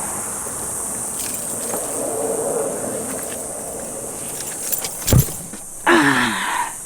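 A steady high-pitched drone throughout, a single sharp thump about five seconds in, and a short falling voice sound just after.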